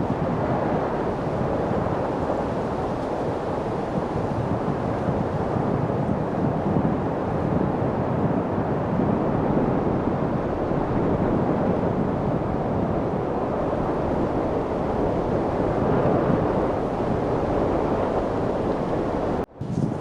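Steady rushing of wind, an even low-to-mid noise that swells and eases slightly. It cuts out for a split second near the end and resumes at once.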